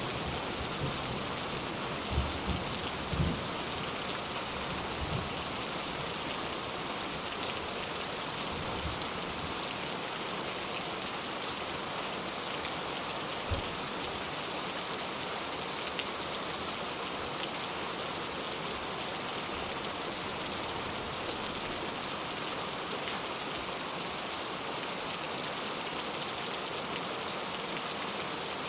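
Steady rain falling, an even dense patter of drops. There are a few brief low thumps in the first few seconds and one more a little before halfway.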